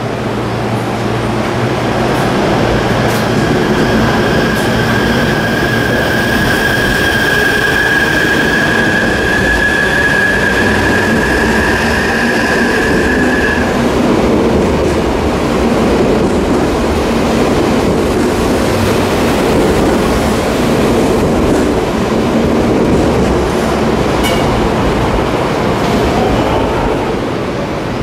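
Odakyu 50000 series VSE electric train pulling out of an underground station and running past, with a steady rumble of wheels and cars. A high whine rises slightly in pitch and stops about halfway through.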